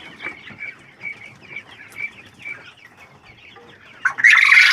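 Poultry in the shed peeping repeatedly, faint short calls a few per second. Near the end comes a short, loud, breathy hiss.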